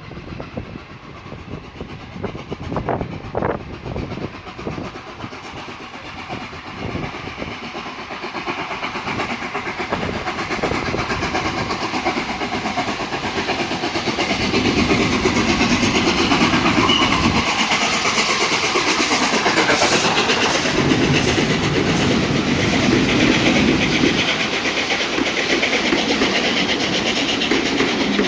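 The Flying Scotsman, an LNER A3 Pacific steam locomotive, and its train approaching and passing. The sound grows steadily louder over the first half, then stays loud as the wheels clatter over the rail joints.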